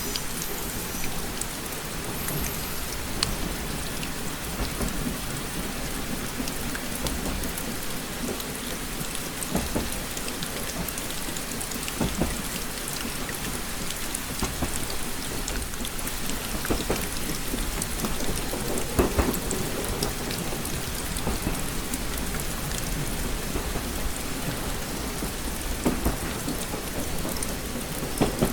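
Steady rain pattering on a train window, with scattered individual drops tapping on the glass over a continuous low rumble.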